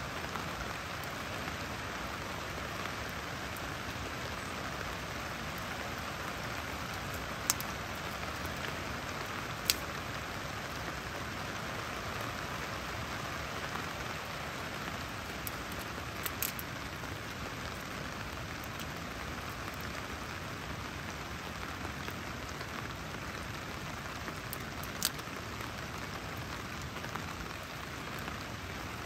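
Steady hiss of rain falling. A handful of sharp cracks cut through it, from dry twigs being snapped and laid on a small campfire.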